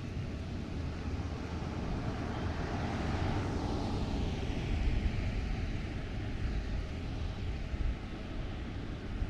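A vehicle passing by: its noise swells to a peak about five seconds in, with a falling whoosh as it goes past, then eases off.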